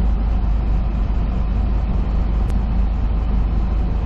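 Steady low rumble of a semi truck's engine and tyre noise heard inside the cab while driving on the highway.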